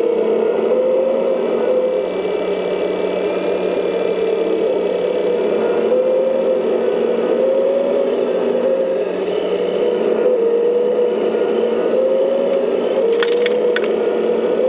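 Electric motor and hydraulic pump of a 1/14-scale RC construction machine whining steadily, the pitch wavering slightly as the load changes, with a few short clicks near the end.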